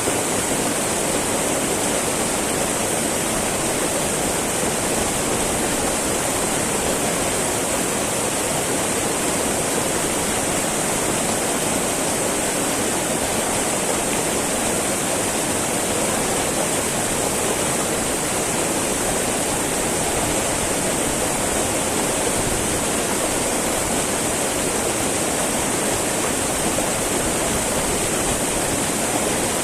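Small mountain river babbling steadily over rocks: a constant rush of flowing water with no changes.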